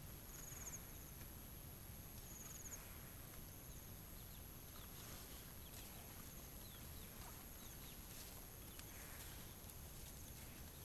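Quiet rural ambience after rain: insects keep up a steady high-pitched drone, with short cricket trills in the first few seconds and faint scattered chirps later.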